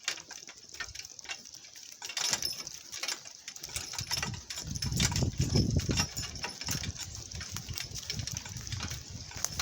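A donkey-drawn cart rattling and clattering as it rolls over rough, bumpy ground. A heavier rumble comes in from about four seconds in.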